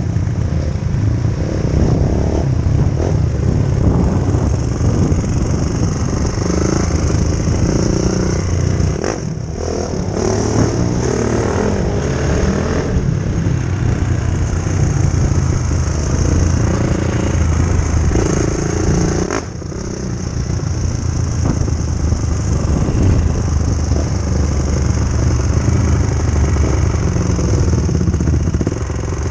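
2004 Honda CRF450R dirt bike's single-cylinder four-stroke engine running loud and steady, easing off briefly twice.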